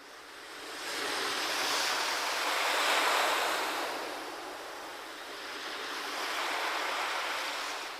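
Ocean waves washing in, two swells of rushing surf, the first peaking about three seconds in and the second near seven seconds.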